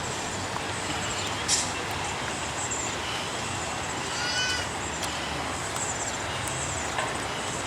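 A gull gives one short, arched call a little past four seconds in, over a steady hum of city traffic.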